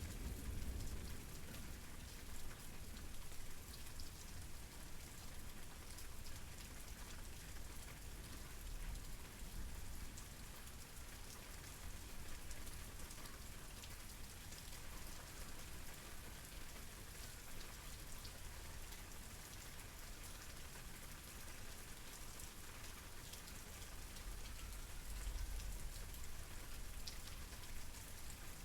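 Steady rain falling, an even hiss of drops. A low rumble swells briefly near the end.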